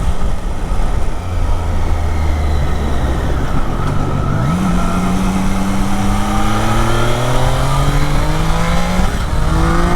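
Triumph Daytona 660's 660 cc inline-triple engine on the move, with wind noise. The engine note holds steady, jumps up about four seconds in, then climbs as the bike accelerates, with a short break near the end before it climbs again.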